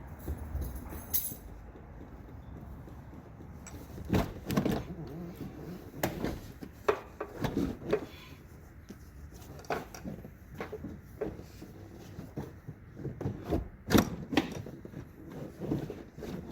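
Irregular knocks, clicks and rattles of hand tools and interior parts being handled while taking out a car's rear seat, with one louder knock about fourteen seconds in.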